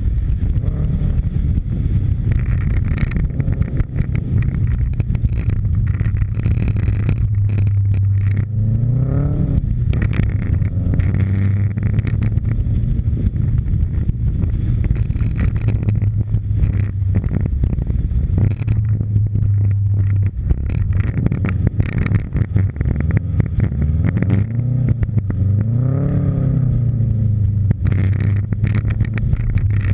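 Subaru Impreza STI's turbocharged flat-four engine running hard through a snow rally stage, its revs rising and dropping once about nine seconds in and again near the end, under steady wind rush on a microphone mounted outside at the rear spoiler.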